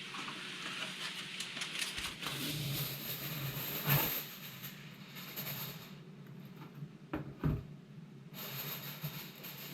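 Aluminium foil crinkling and rustling as a sheet is pulled out and pressed over a frying pan, with a sharp crackle about four seconds in and two quick knocks a few seconds later.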